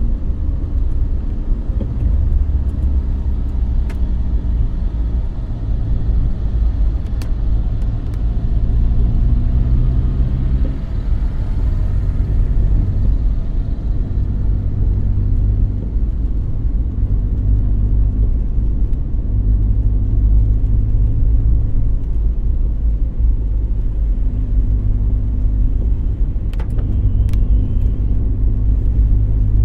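A car being driven: a steady low engine and road rumble, the engine note shifting with speed and then holding. A few faint light clicks come through.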